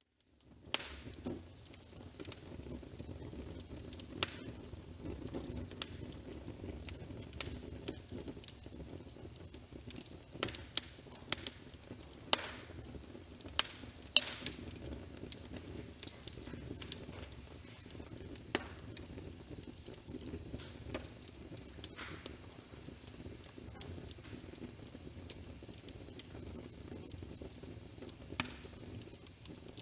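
Fireplace fire crackling: a steady low rumble of burning wood with irregular sharp pops and snaps, several louder ones in the middle. It fades in just at the start.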